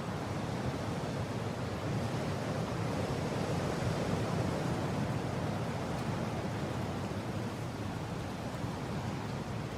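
Steady gusting wind, a dense rushing noise that swells a little toward the middle and eases again.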